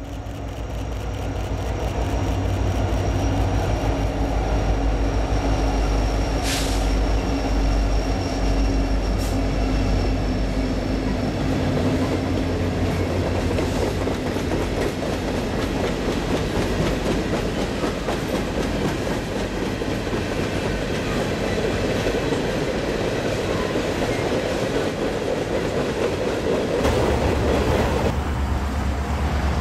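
Norfolk Southern freight train passing close by: the diesel locomotives' engines run past in the first seconds, then a long line of steel coal hoppers rolls by with steady rail and wheel clatter. Near the end the sound switches to wind rumbling on the microphone.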